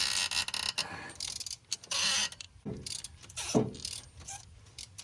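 Electric ratchet whirring in short bursts as it unscrews spark plugs, with a couple of shorter whirs that drop in pitch and scattered clicks of socket and tool.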